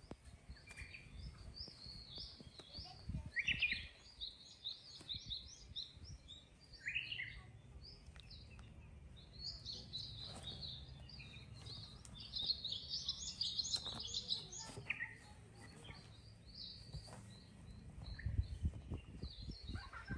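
Small birds chirping in quick runs of short high notes, with a few lower falling calls in between, over faint low knocks and rustling.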